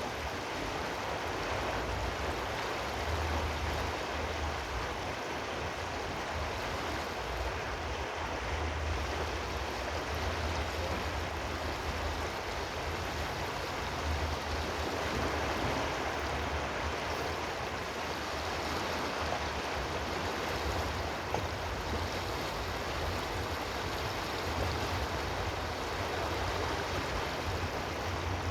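Running water rushing steadily, with a low rumble underneath.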